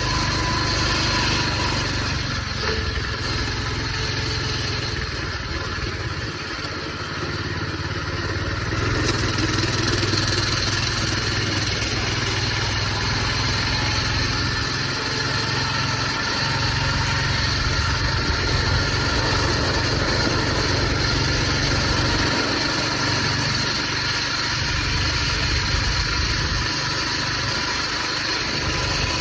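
Coleman BT200X minibike's small single-cylinder four-stroke engine running steadily as the bike is ridden, getting a little louder about nine seconds in.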